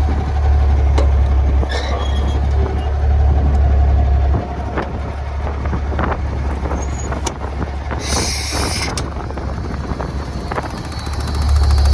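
Kenworth T800 semi truck's natural-gas engine running with a steady low rumble, heavier for the first four seconds and again near the end. A short hiss cuts in for about a second around two-thirds of the way through, with a few light clicks here and there.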